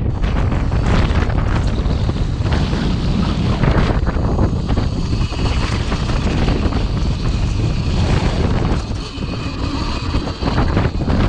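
Wind buffeting the microphone in a steady low rumble while riding the Cake Kalk OR electric dirt bike, with a faint high whine in the background from about a third of the way in. The noise eases a little near the end.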